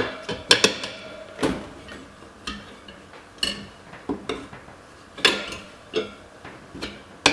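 Tire iron and screwdriver clinking and scraping against a dirt bike wheel rim while prying the tire bead off, a series of separate sharp metal clicks about one a second.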